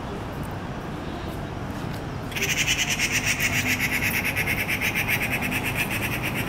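Grey treepie giving a harsh, rapid rattling call of about five notes a second, starting about two seconds in and lasting to the end.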